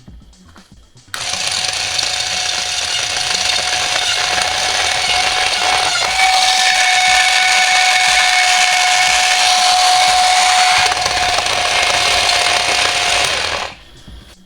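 High-voltage electrical arcing: a loud, harsh buzzing hiss that switches on about a second in, holds steady with a faint steady tone in it, and cuts off suddenly near the end.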